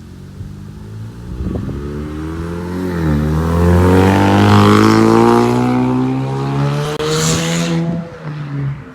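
2018 Mustang EcoBoost's turbocharged 2.3-litre four-cylinder engine accelerating hard: its pitch climbs, dips briefly about three seconds in as at a gear change, then climbs again. About seven seconds in there is a short burst of hiss, and the engine falls away near the end.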